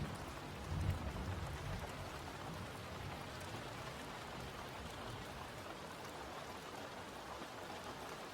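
Steady rainfall on a surface, an even hiss of drops. A low rumble dies away in the first second or two.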